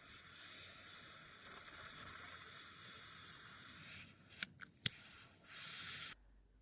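A lighter clicking sharply twice over a faint, steady hiss.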